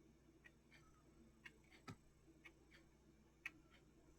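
Near silence with faint, irregular small clicks, such as small items being handled on a work surface.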